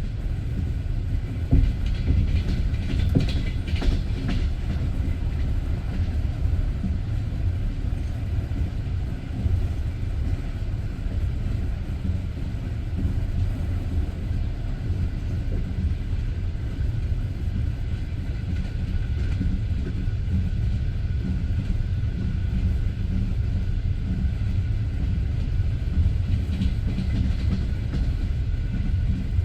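Passenger train wheels rolling along the track, a steady rumble with the clickety-clack of the wheels over rail joints. The clicks come in clusters about two seconds in and again near the end.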